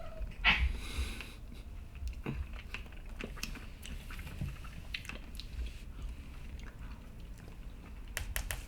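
Someone eating ice cream: quiet chewing and mouth sounds with scattered light spoon clicks. There is a short rustling burst about half a second in and a quick run of clicks near the end.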